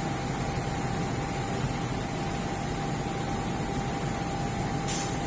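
A train standing at the platform: steady running noise with a thin, steady whine, and a short hiss of air about five seconds in.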